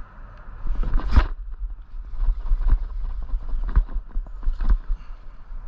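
A series of irregular knocks and clicks, the loudest about a second in, over a steady low rumble.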